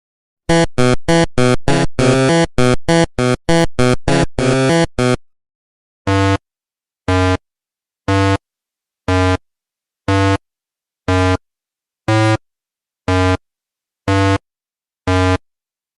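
Electronic synthesizer notes: a quick run of about fourteen short notes, then ten single notes about once a second.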